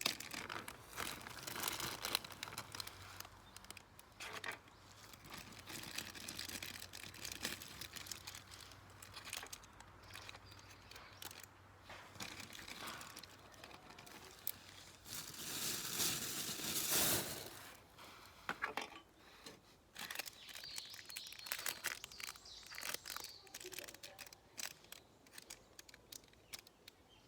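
Rustling and crinkling handling noise with many scattered clicks, and one louder, longer rustle about fifteen to seventeen seconds in.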